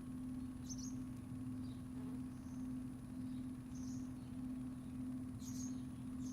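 Small birds chirping in short high calls, a few each second or so, over a steady low hum and a faint steady high whine.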